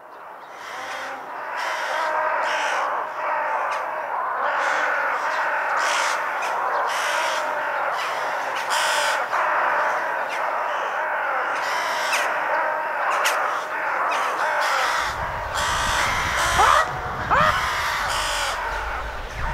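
Many birds calling at once, their calls overlapping, fading in at the start. A low rumble joins about fifteen seconds in.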